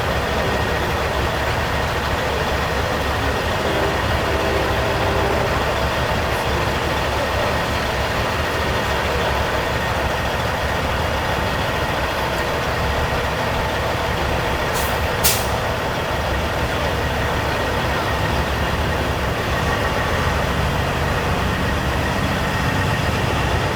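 Big-rig semi truck engines running steadily with a low rumble as the trucks move along, and one short sharp sound about fifteen seconds in.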